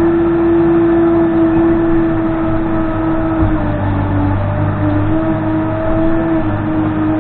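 Case 580N backhoe loader's diesel engine running with a steady whine, its pitch dipping slightly a couple of times.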